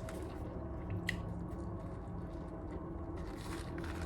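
A person chewing food close to the microphone: soft, wet mouth clicks and smacks scattered irregularly over a low steady hum.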